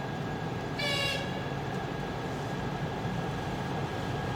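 Two-section electric freight locomotive and its wagons running past at a level crossing, with steady rolling noise and a short high whistle from the locomotive about a second in.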